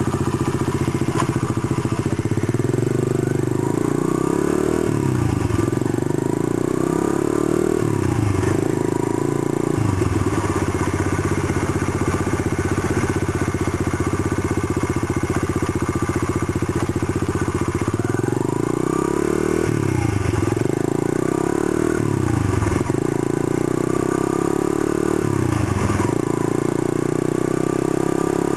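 125cc single-cylinder four-stroke pit bike engine under hard acceleration on a ride. Its note climbs, then drops sharply about half a dozen times as it shifts gear or the throttle closes, and climbs again each time.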